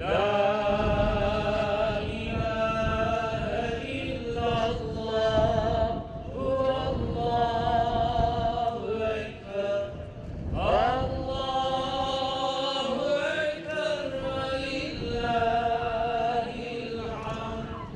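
A single voice chanting an Islamic religious recitation in long, ornamented held notes, phrase after phrase, with a short break about six seconds in and a rising line starting a new phrase about ten seconds in.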